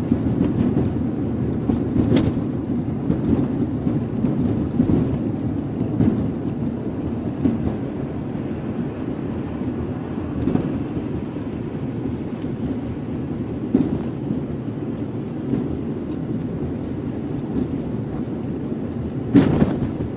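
Car driving with a steady road and tyre rumble, broken by occasional short knocks from the suspension, the loudest near the end.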